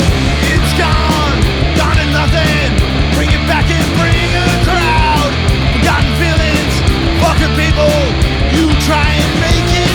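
Punk rock band playing an instrumental passage: electric guitars over bass and steady drums, with a lead line sliding and bending in pitch.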